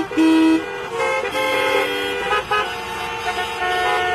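Many vehicle horns honking at once in traffic, overlapping steady blasts at different pitches, one loud blast right at the start.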